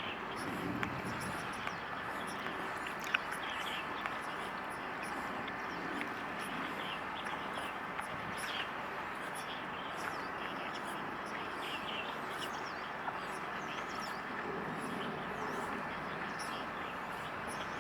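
Outdoor ambience: a steady wash of background noise with faint bird chirps scattered through it and a few small clicks.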